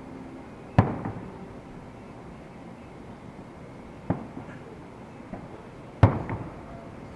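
Three sharp bangs, about a second, four seconds and six seconds in, each trailing off in a short echo; the first and last are the loudest.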